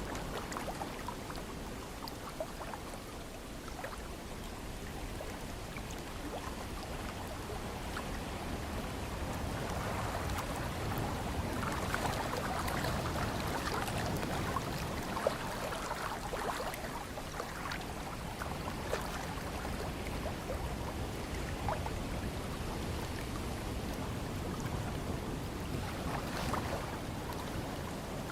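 Ocean waves washing ashore, a steady rush that builds and eases in slow swells, with small splashes and trickles.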